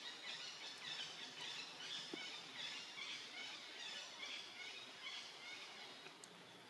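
Faint outdoor forest ambience with birds chirping: many short, high calls repeating through it.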